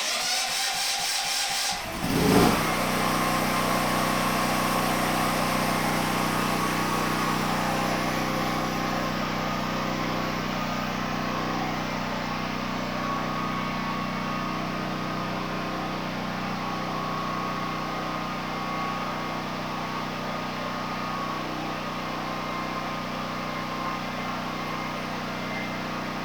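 The electric starter cranks the DuroMax XP13000EH generator's engine for about two seconds. The engine then catches with a brief surge and settles into steady running on propane.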